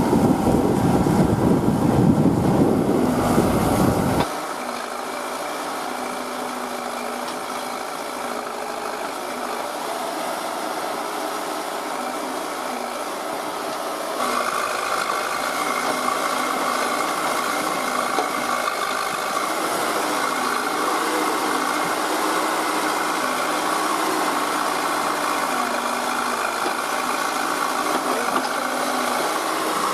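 Heavy diesel machinery engine running steadily. A loud low rumble at the start cuts off suddenly after about four seconds, and the engine gets a little louder about halfway through.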